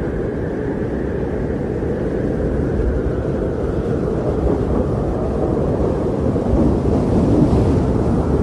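Strong blizzard wind blowing, a steady deep rush that swells a little near the end.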